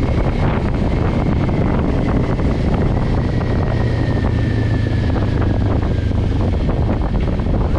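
Kawasaki Ninja 400's parallel-twin engine running while the bike is under way, with wind buffeting the microphone. A faint whine slowly drops in pitch as the bike eases off.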